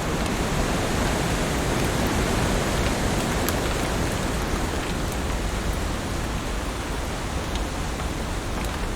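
Heavy rain falling steadily as a dense, even hiss, with a few sharp drop ticks now and then.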